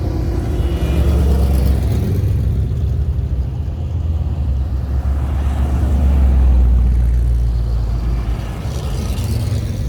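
Car engines rumbling as vehicles drive past in a slow procession. The rumble swells to its loudest about six to seven seconds in, as one car passes close, then eases off.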